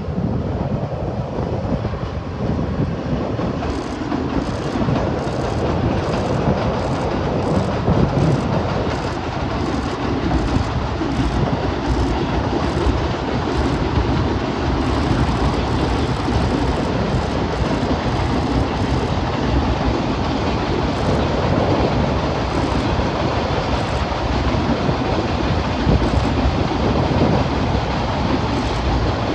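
A freight train of Hoki 2000 and Hoki 9500 hopper wagons, hauled by ND552-class diesel locomotives, rolls past. Its wheels clack over the rail joints steadily throughout.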